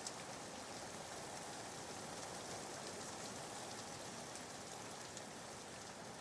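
Soft, steady rain falling, a background rain ambience used as white noise, with fine patter of drops.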